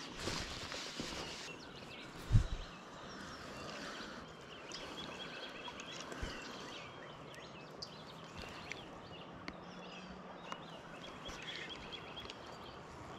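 Several songbirds chirping and calling over a low outdoor hush, with one loud low thump about two seconds in.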